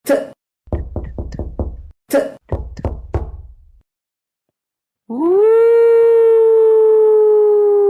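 Two quick series of knocks, like rapping on a door, followed a couple of seconds later by a long howl that rises fast, holds, and slowly sinks in pitch.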